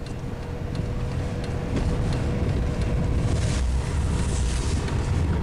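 Car interior noise while driving: low engine and road rumble that grows louder over the first couple of seconds as the car pulls out, then holds steady, with a faint steady whine underneath.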